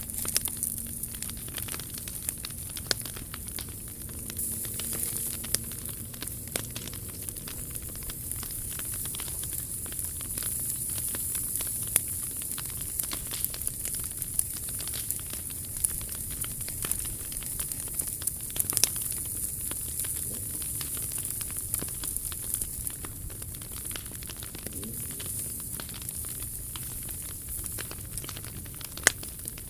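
Wood campfire burning: a steady hiss with frequent small crackles and sharp pops, the loudest pop near the end.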